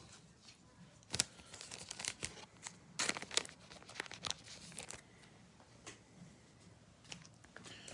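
Foil trading-card pack wrapper being crinkled and torn by hand, in irregular sharp crackles. The loudest come about a second in and again around three seconds in.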